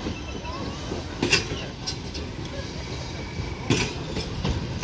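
A train running past: a steady low rumble with a few sharp clacks from the wheels and rails, the loudest about a second in and another near the end.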